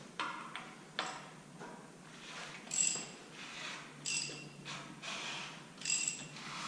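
Metal tools and parts clinking while working on a bare engine block: a couple of sharp clicks near the start, then four short metallic rings spaced about a second and a half apart.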